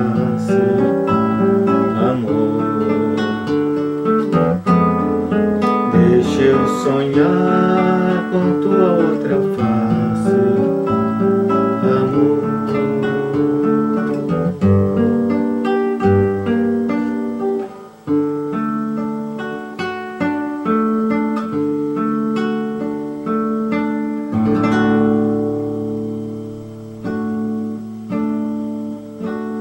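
Acoustic guitar playing the instrumental close of a song, plucked notes and chords, fading out near the end.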